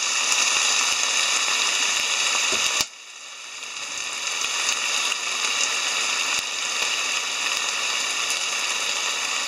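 Hijiki seaweed and vegetables sizzling in an oiled frying pan, with soy sauce just added. The sizzle cuts out sharply about three seconds in and builds back over the next few seconds.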